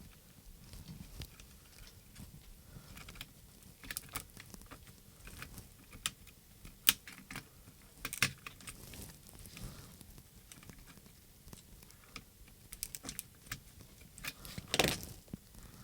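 Scattered light clicks and taps of small plastic and metal parts being handled while a handheld radio-control transmitter is taken apart, with a couple of sharper clicks about halfway through and a short rustle near the end.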